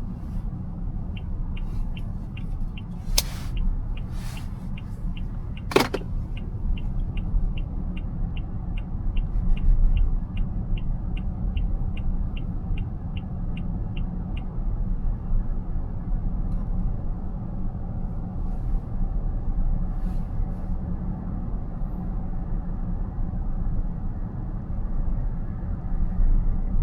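Steady road and tyre rumble inside a moving car's cabin, with the turn-signal indicator ticking about two and a half times a second for some thirteen seconds before it stops. A few sharp clicks sound early on.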